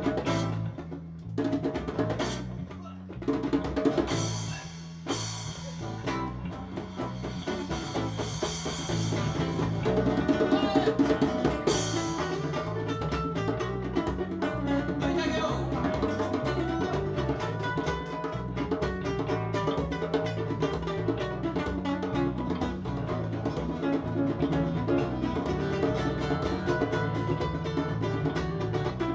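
Acoustic band playing an instrumental passage live: guitar, bass and percussion, with cymbal washes in the first twelve seconds, then a busier, steady rhythm.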